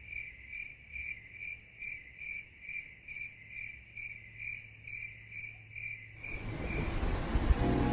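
Cricket-like chirping, one clear high chirp repeated evenly about two and a half times a second. About six seconds in, a rushing noise swells up and covers it.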